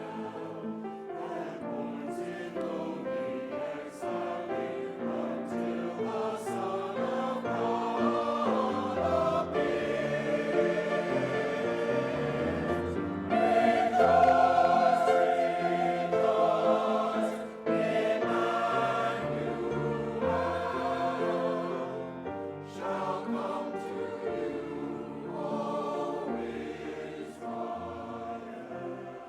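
Church choir singing a Christmas piece, swelling to its loudest about halfway through and then softening toward the end.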